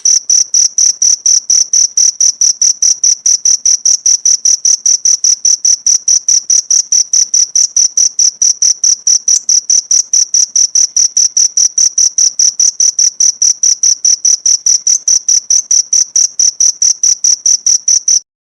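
Cricket chirping: a high, even-pitched trill of pulses, about six a second, that cuts off suddenly near the end.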